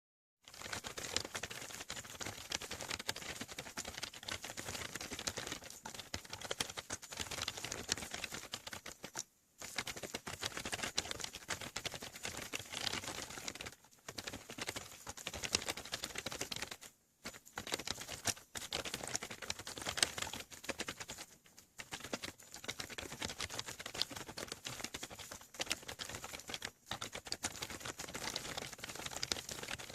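Fast typing on a membrane keyboard under a silicone keyboard cover (key skin): dense, rapid key presses with short pauses about every few seconds.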